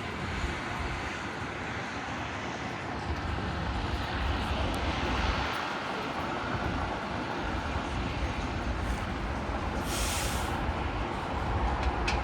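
A jet airliner's engines give a steady rumble as it passes, with a brief hiss about ten seconds in.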